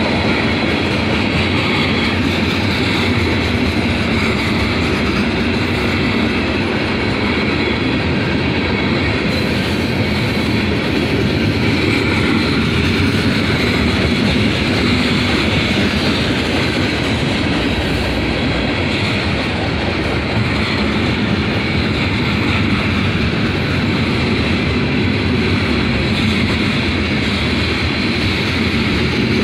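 Freight cars of a Union Pacific manifest train, including covered hoppers and tank cars, rolling steadily past, their steel wheels running on the rails in a loud, continuous rumble.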